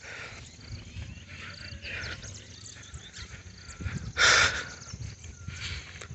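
Birds chirping and calling in the countryside over a low rumble of wind on the microphone. About four seconds in comes one loud, harsh cry lasting about half a second.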